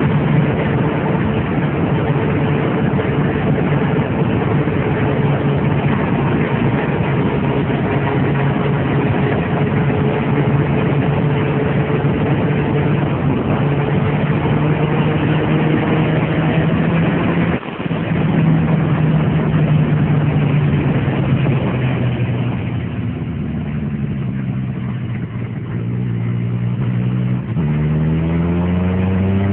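Turbocharged Suzuki Hayabusa's inline-four engine heard from onboard at high speed under heavy wind rush, holding a steady, slowly climbing note. There is a brief break a little over halfway through. Later the note eases off and falls, then rises steeply near the end as the bike accelerates again.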